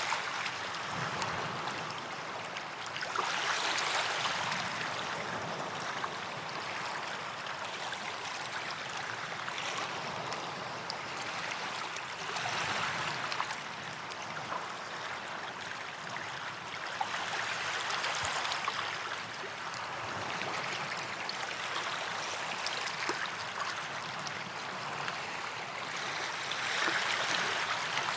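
Small waves washing onto a sandy beach, each swash rising and falling every four to five seconds over a steady hiss of surf.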